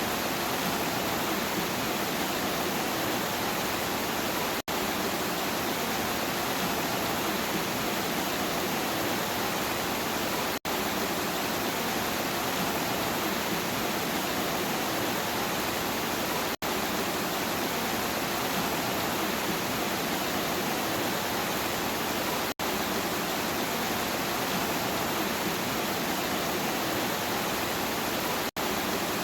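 Steady, even rain, a continuous hiss without thunder, that breaks off for an instant about every six seconds.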